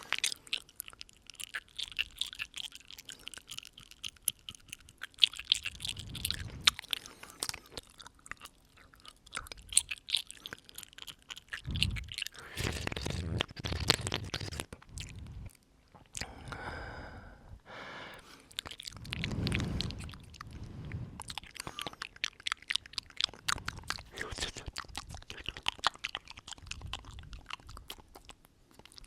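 Close-up ASMR mouth sounds: many quick wet clicks and smacks right at the microphone, with a few longer breaths blown onto it.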